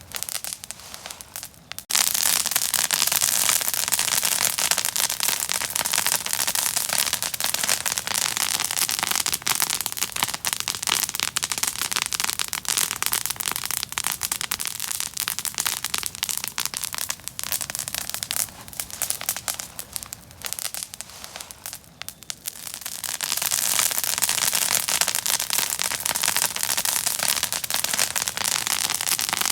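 Open fire crackling, a dense run of rapid pops and snaps. It is softer for the first two seconds, then grows louder, and it eases for a moment about twenty seconds in before picking up again.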